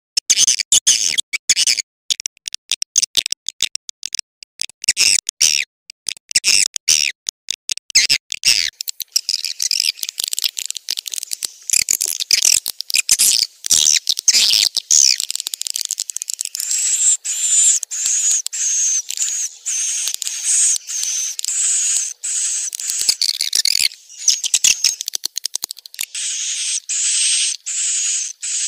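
Swiftlets twittering in a dense chorus of high chirps, a swiftlet call recording of the kind used to lure the birds into swiftlet houses. For the first several seconds the chirping comes in rapid choppy bursts with short gaps, and then it runs on as continuous twittering with rising and falling notes.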